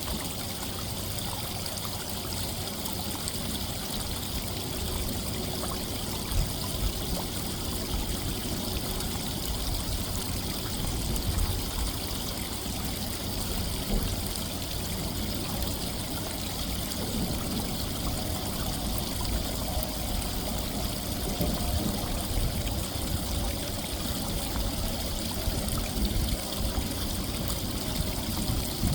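A small winter creek running and trickling steadily among ice.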